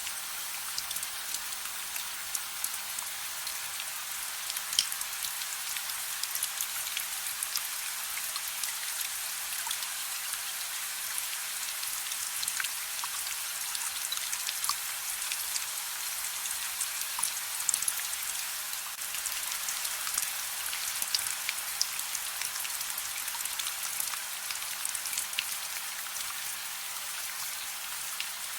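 Soft rain falling steadily: an even hiss sprinkled with many small drop ticks.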